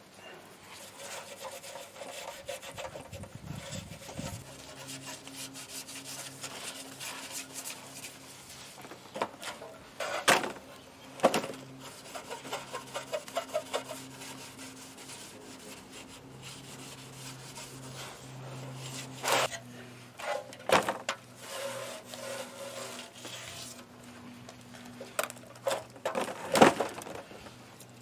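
Hand work on metal parts: rubbing and scraping with several sharp knocks and clanks, over a faint steady hum that starts about four seconds in.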